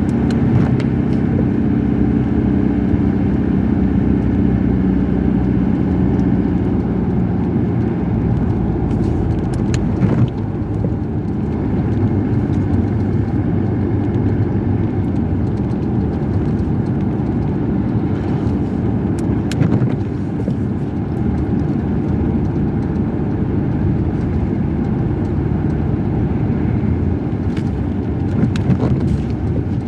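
Car driving along a road: steady engine and tyre noise, with a steady engine tone over the first several seconds and a brief dip in level about ten seconds in.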